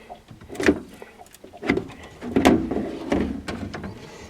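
Cabin fittings being handled: four or five knocks and clunks with short scraping rattles, as lids and compartment doors are moved and shut.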